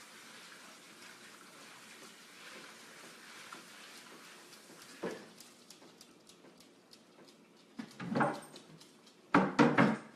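Kitchen tap running as a cutting board is rinsed under it, stopping about halfway through. Clicks and knocks follow as the board is handled, with a few loud knocks near the end.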